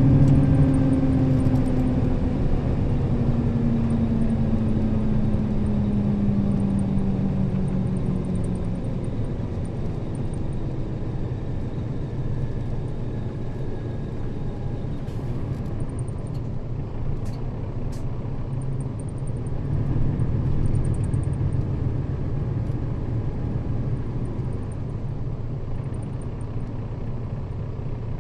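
Nissan Diesel KL-RA552RBN route bus running. Its engine and driveline whine falls slowly in pitch over the first several seconds as the bus eases off, with a brief swell in engine noise about twenty seconds in, over steady road rumble.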